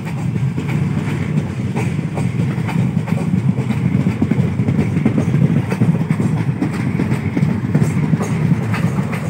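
Train running along the track: a steady rumble with faint clicking from the wheels.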